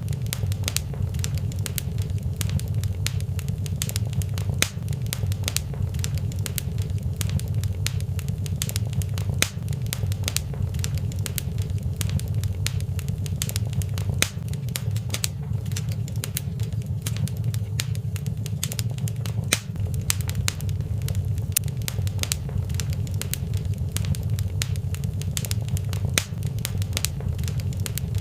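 Fireplace fire crackling: many sharp pops and snaps at irregular intervals over a steady low rumble.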